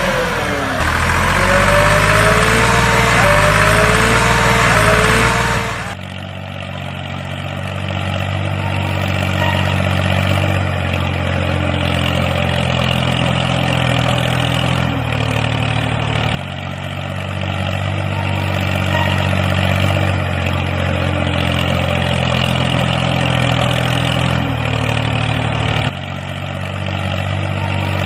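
Engine idling sound, steady and low, that stops and starts again abruptly about every ten seconds as a repeating loop. For the first six seconds a different, louder sound with wavering gliding tones plays over it.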